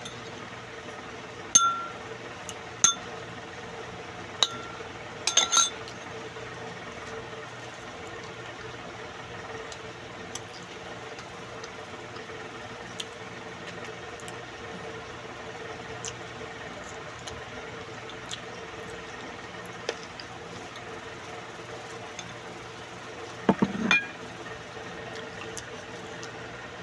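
Cutlery clinking against dishware, a few sharp ringing clinks in the first six seconds, then a heavier knock near the end, over a steady low hum.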